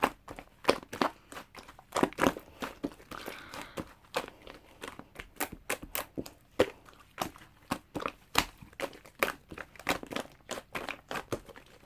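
Clear slime with clay mixed in, kneaded and squeezed by hand: irregular crisp pops and clicks of trapped air, several a second.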